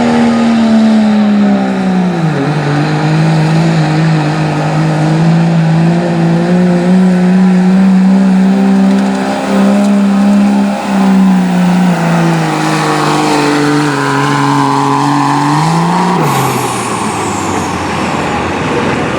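Diesel pickup truck engine running hard under load while pulling a sled, its pitch sagging about two seconds in and then holding steady. Near the end the engine note drops away as the throttle comes off, leaving a rougher rushing noise.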